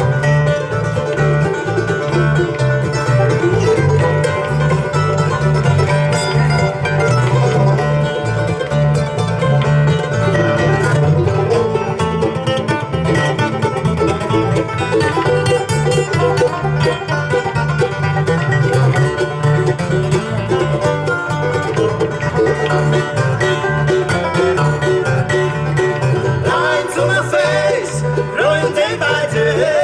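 Live bluegrass band playing an instrumental break, with banjo and guitar picking at a steady driving pace. A singing voice comes back in near the end.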